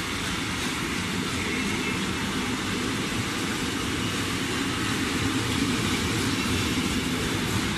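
A train running along the track: a steady, unbroken rail rumble.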